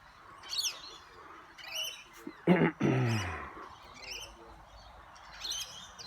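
Birds chirping in short, high, repeated calls. About two and a half seconds in there is one loud, low call that falls in pitch.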